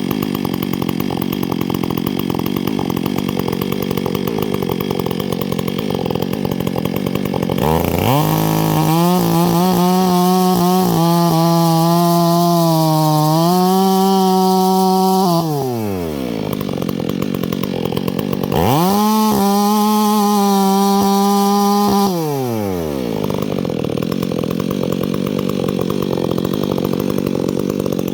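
Chainsaw running at idle, then revved up to high speed twice: once for about eight seconds and again for about four seconds, the pitch climbing at each rev-up and sinking back to idle afterwards.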